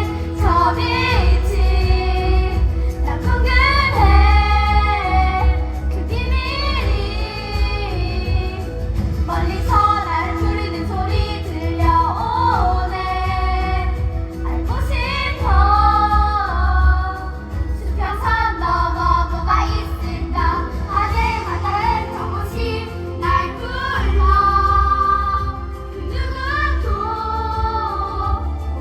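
Young voices singing a song from a musical, phrase after phrase, over instrumental accompaniment with a steady bass.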